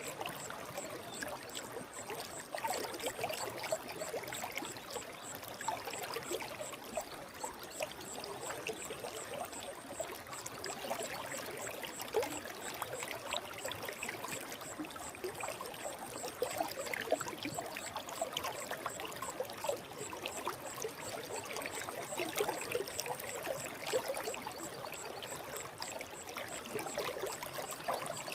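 Forest stream flowing: a steady babble of trickles and small splashes.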